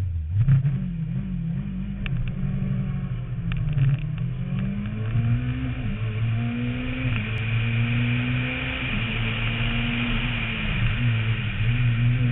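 Renault Mégane rally car engine pulling away hard, its note climbing and dropping back with each upshift as it accelerates up the stage, heard from a roof-mounted camera with rising wind and tyre hiss over it.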